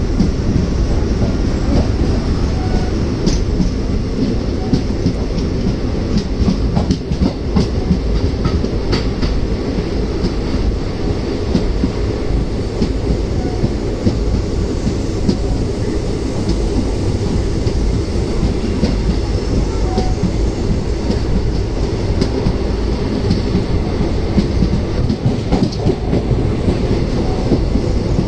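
Passenger train coach running along the track, heard at its open doorway: a steady rumble of wheels on rails with scattered clicks and clacks.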